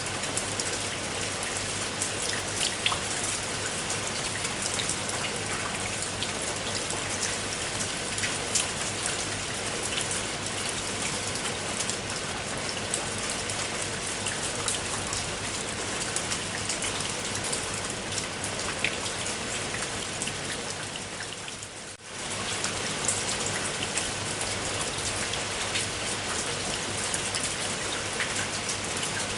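Steady rain falling, a dense hiss dotted with the ticks of individual drops hitting a surface. About three quarters of the way through it briefly fades down and comes straight back.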